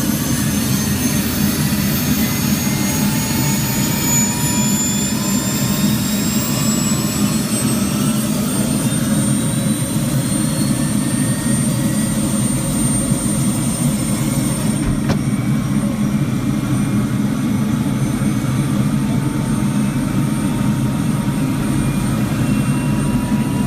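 Helicopter engine and rotor running steadily, with high whines that slowly rise in pitch through the first half as the engine spools up.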